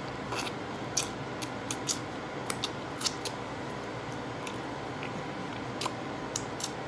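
Close-miked eating sounds: a person chewing a fried taco, with scattered sharp crunches, wet mouth clicks and smacks coming in small clusters, over a steady background hiss.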